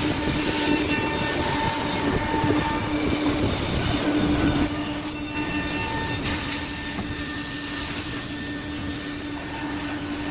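Combination woodworking machine running: a steady motor whine over a continuous hiss of machining noise, easing slightly in level about halfway through.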